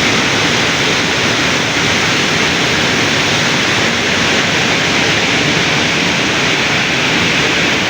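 A waterfall's water rushing, a steady loud hiss with no change in level.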